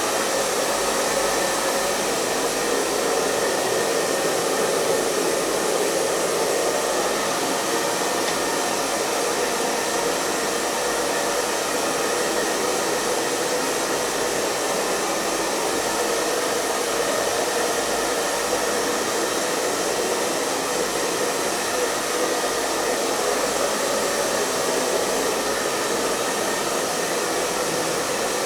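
Hair dryer running continuously: a steady, even blowing hum with a faint fixed whine, no change in speed.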